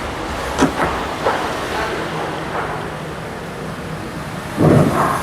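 Steady road traffic noise with wind on the microphone, a few short knocks in the first second or so, and a louder gust near the end.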